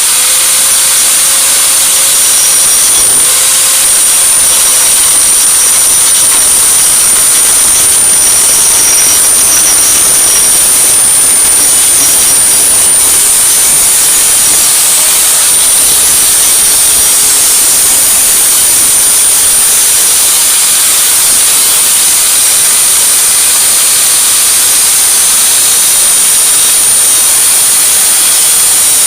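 Angle grinder with a cut-off disc cutting through an exhaust pipe: a loud, steady, high-pitched whine with hiss that runs without a break.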